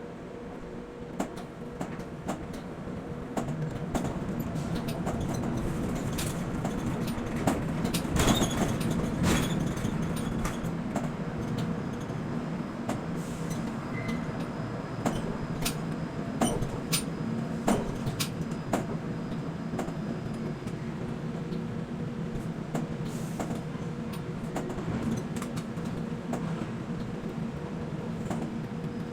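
Quay container crane machinery running with a steady hum, with scattered sharp metallic clicks and clanks, a cluster of them about eight seconds in.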